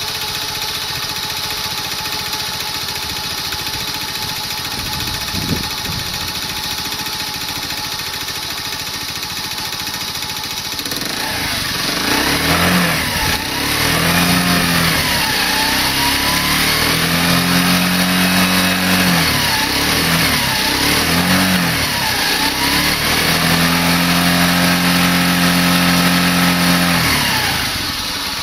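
Honda Little Cub's 49 cc four-stroke single-cylinder engine, fitted with a stock muffler, idling steadily. A little over a third of the way in it is revved in a series of throttle blips, twice held up for a few seconds, then drops back to idle near the end.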